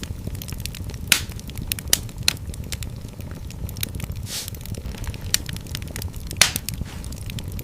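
Wood fire in a fireplace crackling, with a steady low rumble of flame and irregular sharp pops, several louder ones scattered through.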